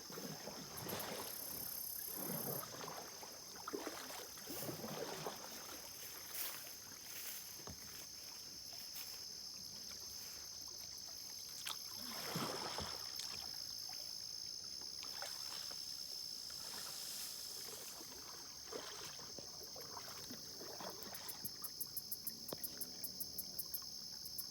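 Kayak paddle strokes splashing and dripping in the water, irregularly spaced, over a steady high-pitched insect chorus. Near the end a rapid insect chirping pulses about five times a second.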